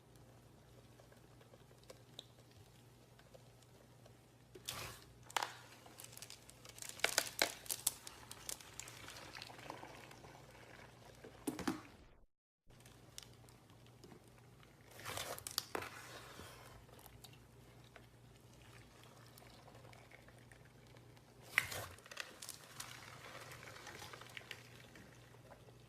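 Crinkling and crackling handling noises in three bursts over a low hum, with a brief cut to silence about twelve seconds in.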